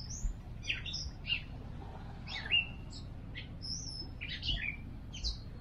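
Songbirds chirping and calling: many short high notes and whistles at an irregular pace, over a low steady background rumble.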